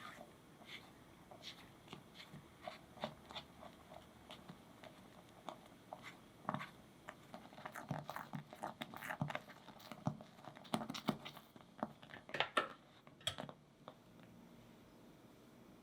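Faint clicks, taps and light scrapes of kitchen utensils against a bowl or pot while making lemon curd, scattered at first and busier in the middle, then easing off near the end.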